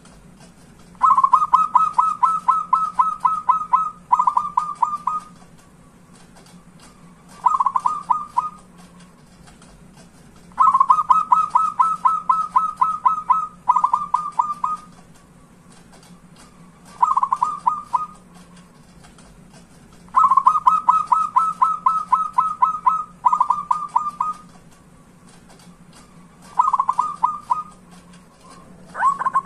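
Zebra dove (perkutut) cooing song. Runs of quick, evenly pulsed coos come in a repeating pattern: a long run of about three seconds, straight away a shorter one, then a brief separate run, the cycle repeating about every ten seconds.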